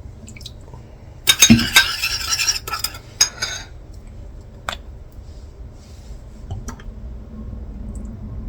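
A spoon stirring a small bowl of dipping sauce, clinking and scraping against the bowl in a clattering burst of a second or so, then a shorter one. A few single light clinks follow.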